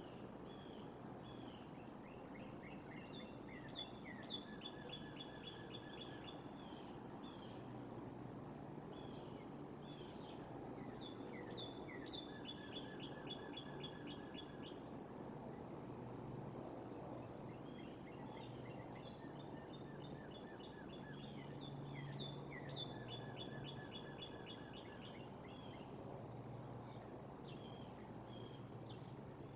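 A bird calling faintly in repeated phrases of quick, high, evenly spaced notes and short trills, one phrase every eight seconds or so, over a steady low outdoor hum.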